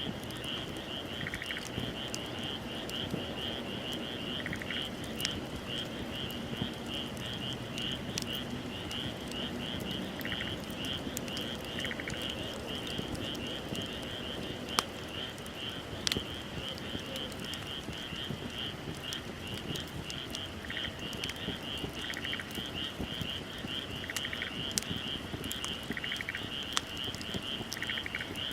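A wood bonfire crackling with scattered sharp pops, over a steady night chorus of calling animals: a fast, unbroken pulsed trill high in pitch, with a second caller giving short chirps every couple of seconds.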